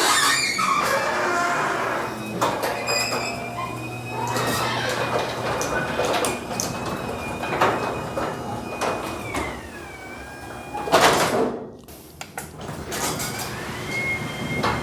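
A sectional garage door travelling on its opener. A steady high whine drops in pitch about nine seconds in and climbs again near the end, over clicking and knocking from the rollers and hinges in the track, with one louder clunk around eleven seconds.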